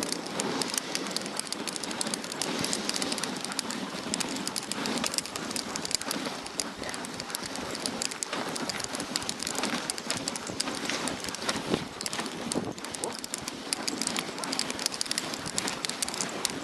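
Dog sled runners sliding over a snow trail: a steady crackling hiss full of small clicks from the snow under the moving sled.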